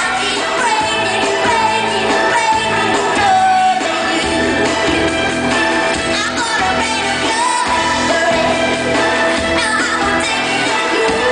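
A pop song performed live: a female lead singer's voice holding and gliding between long notes over a full band, in a large arena.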